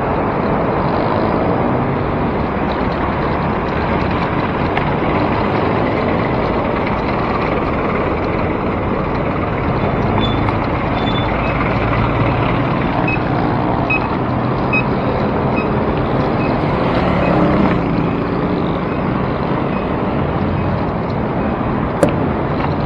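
Steady rush of wind and city road traffic heard from a moving bicycle. A run of faint, short high beeps comes in the middle, and a single sharp click near the end.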